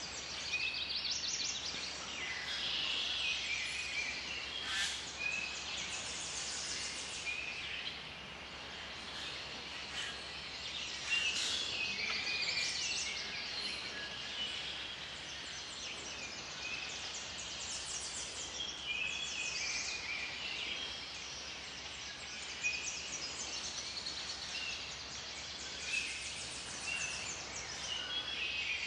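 Several woodland songbirds singing at once, a busy mix of fast trills and short whistled notes, over a faint steady hiss.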